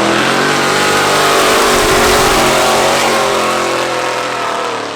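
Racing car engine at high revs as a car drives up the hill past the listener, its note sagging a little and then climbing again.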